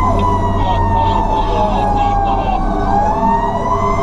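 Fire truck's Federal Q mechanical siren winding down slowly and then spinning back up near the end, with a faster electronic siren yelping alongside. The truck's engine drones low underneath.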